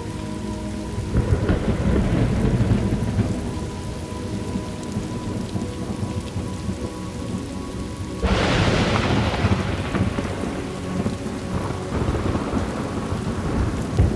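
Steady rain with rolling thunder: a long rumble builds about a second in, and a louder, sharper thunderclap breaks about eight seconds in and rolls off slowly.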